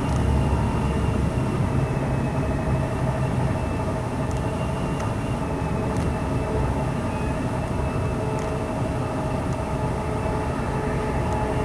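Class 185 diesel multiple unit running at speed, heard from inside the passenger saloon: a steady rumble from the underfloor diesel engine and the wheels on the rails, with a thin steady whine above it and a few faint ticks.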